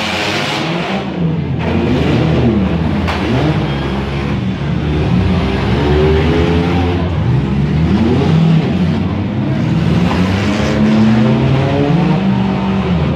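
Several demolition derby cars' engines revving and running at once, their pitches rising and falling as the drivers accelerate and back off. A couple of sharp bangs come in the first three seconds.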